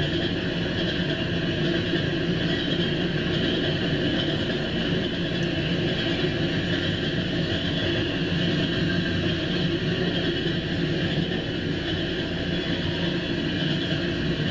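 Loaded coal hopper cars of a freight train rolling past, a steady noise of steel wheels running on the rails.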